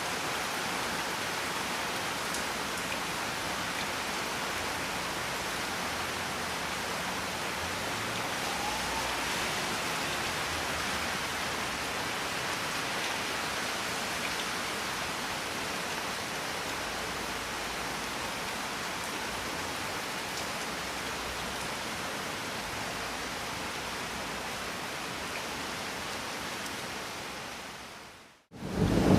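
Steady rain, an even hiss that fades out about a second before the end; after a brief gap, much louder rain cuts in.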